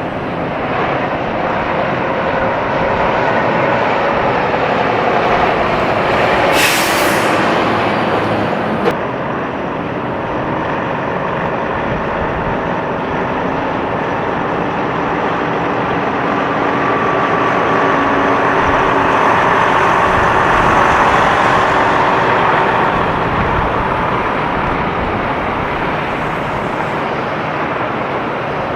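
Semi trucks going by: steady diesel engine and tyre noise from heavy traffic, swelling and easing as trucks pass. A short, sharp hiss of air about seven seconds in, and a single click about two seconds later.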